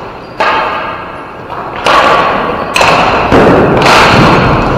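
Four hard knocks and bangs from ball hockey play, spaced about a second apart, each ringing on in a large echoing hall.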